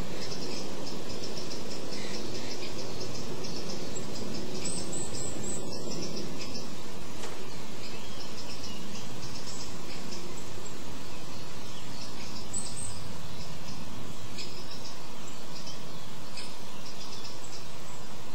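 Small songbirds calling with many short, high chirps scattered throughout, over a steady low background rumble.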